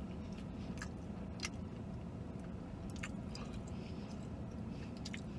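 A man chewing a mouthful of crispy fried chicken sandwich with his mouth closed: faint scattered wet clicks over a steady low hum in the vehicle cabin.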